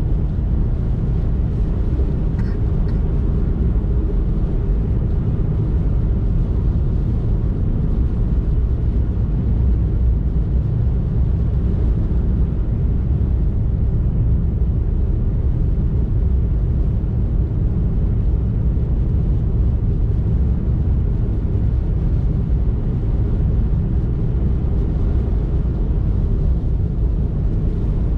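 Car driving at steady speed: an even, low rumble of engine and road noise with no change in pace.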